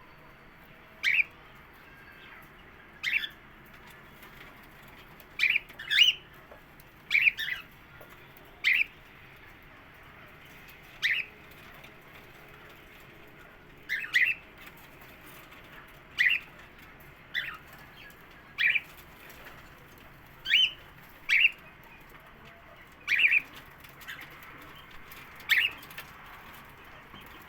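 White cockatiel calling: short, high chirps repeated every second or two, some coming in quick pairs.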